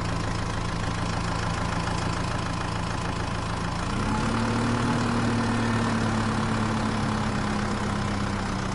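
Small motor of a homemade tractor water-pump model running with a steady hum. Its pitch steps up slightly about four seconds in.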